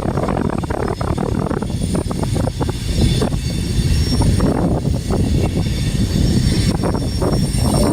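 Freight train passing: a steady, loud, low rumble of diesel locomotives and rolling cars, with irregular clicks and knocks from the wheels on the track.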